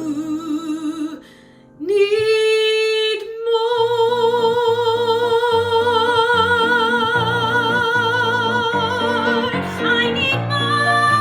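Female voice singing a show-tune phrase over instrumental accompaniment: a short note with vibrato, a brief break, then one long high note held for about seven seconds with vibrato, ending near the end.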